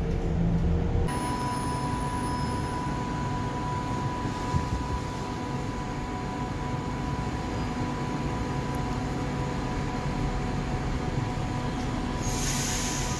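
Electric train running, a steady rumble with a steady high whine that sets in about a second in. A short hiss comes near the end.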